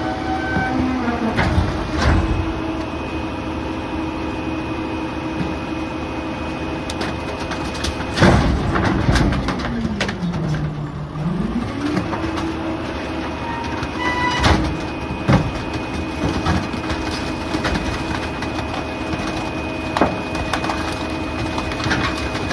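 Rear-loader garbage truck running with a steady whine, its pitch sagging and then recovering about halfway through, with several sharp knocks and bangs of debris.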